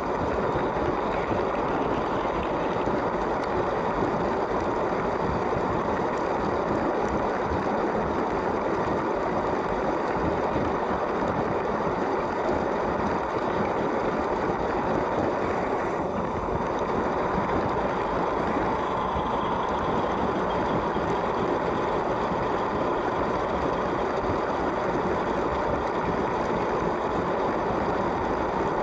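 A LEGO train running steadily along plastic track: its small electric motor whirring and its wheels rolling, an even unbroken noise.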